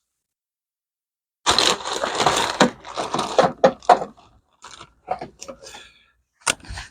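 Handling noises: about three seconds of dense, irregular scraping and clatter, then scattered clicks and a sharp knock near the end.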